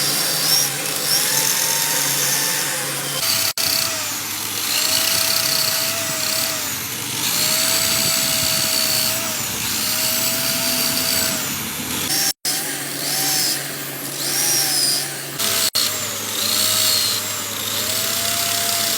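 Handheld power tool working on a loader tire, its motor tone held for a second or two at a time and bending up and down between passes over a steady grinding noise. The sound drops out sharply three times.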